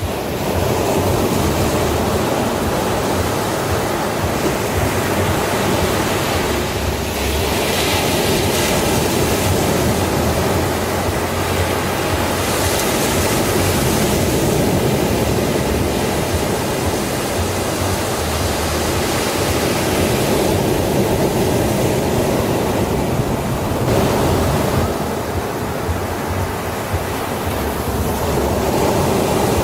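Sea waves breaking on a beach: a continuous wash of surf whose hiss swells and eases several times as waves come in.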